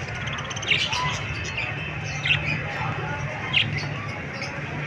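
Parrot giving three short, sharp chirping calls, spaced about a second and a half apart, over a steady low hum.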